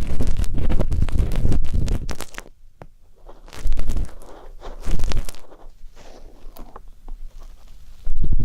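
Ear pick scratching and rubbing close-up for ear-cleaning ASMR. Dense scratching for the first two seconds, then quieter with a few short scrapes, and dense scratching again near the end.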